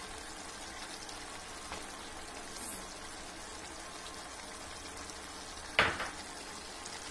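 Chicken curry sizzling steadily in an open pot as it is bhuna-fried, its liquid cooking off and the ghee starting to separate. A single sharp knock sounds about six seconds in.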